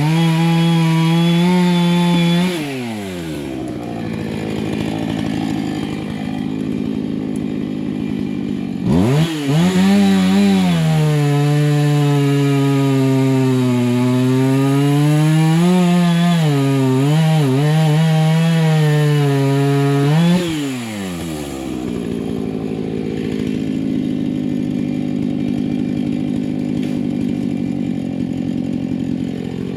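Two-stroke chainsaw revved high, dropping to idle after about two seconds, then opened up again for about twelve seconds with its pitch dipping and recovering as it cuts brush and small trees, before dropping back to idle. The chain is dull; the owner says he should have sharpened it.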